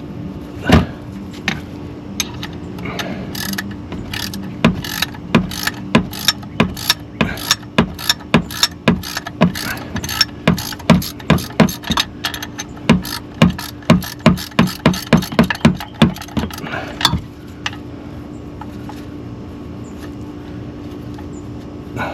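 Hand ratchet wrench clicking in a long run of quick strokes, about two to three a second for some thirteen seconds, as a bolt is worked loose. A steady low hum runs underneath.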